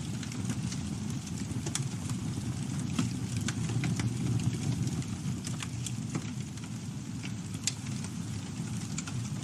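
Campfire burning: a steady low rush of flames with irregular crackles and pops of burning wood, one sharper pop near the end.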